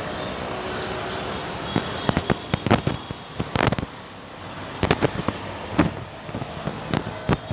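Sharp cracks and bangs at irregular intervals, some in quick succession, over a steady background hiss.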